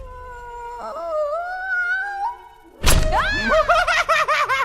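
Cartoon soundtrack effects: a held tone slides upward for about two seconds and fades out. A sudden loud crash follows, then a fast run of shrill, warbling cries that rise and fall several times a second.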